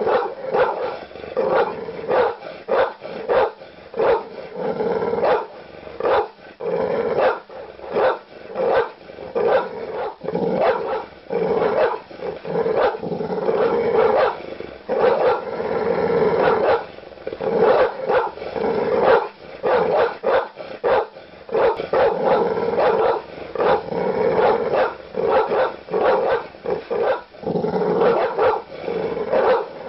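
Large dogs barking aggressively and without pause, deep barks coming in quick, irregular runs.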